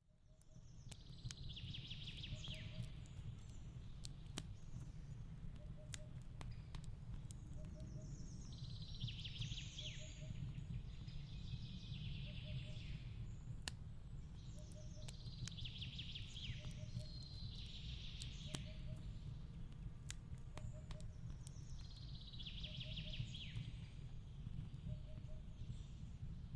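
Wood fire crackling with scattered sharp pops over a low steady rumble, while a bird call repeats about every seven seconds and a soft low double chirp recurs every second or two. The sound fades in over the first second.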